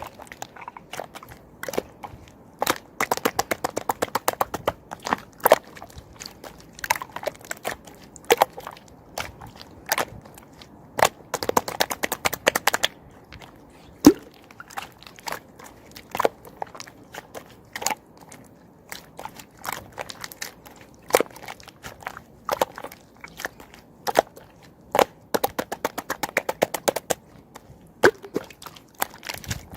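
Slime being worked by hand, giving scattered sharp pops and several quick runs of crackling clicks.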